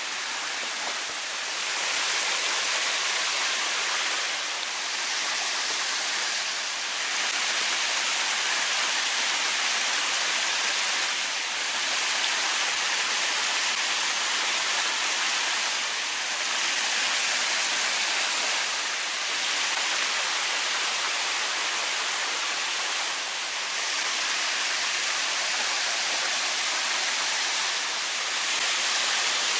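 Rushing water of a small mountain river: a steady, dense hiss whose loudness shifts a little every few seconds.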